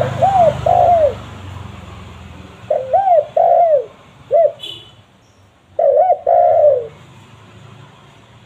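Spotted dove (tekukur) cooing: three phrases of two or three arching coos each, spaced about three seconds apart.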